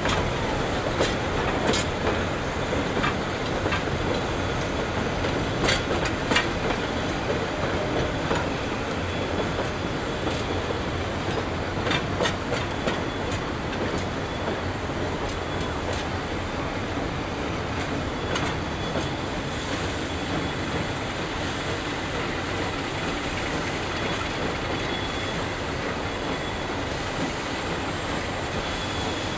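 Narrow-gauge train rolling along with a steady rumble and irregular clicks of wheels over rail joints, joined by a thin, high wheel squeal in the last third.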